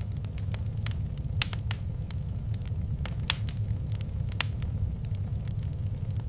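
Fireplace wood fire crackling, with irregular sharp pops over a steady low rumble; three louder pops come about one and a half, three and four and a half seconds in.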